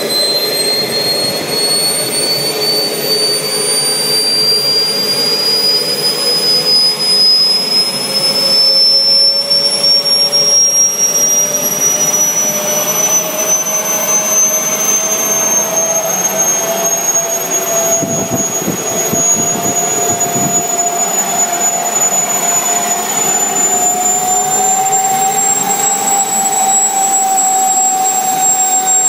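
Jet Central Cheetah kerosene-start model turbine engine running up during its start-up, a loud high whine climbing slowly and steadily in pitch. A brief low rumble comes about two thirds of the way through.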